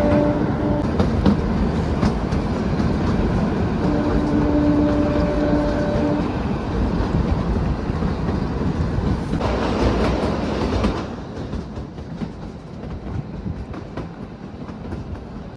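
Kalka–Shimla narrow-gauge toy train running, its wheels clattering steadily on the rails. A horn sounds briefly at the start and again for about two seconds around four seconds in. The noise swells around ten seconds in, then falls quieter after about eleven seconds.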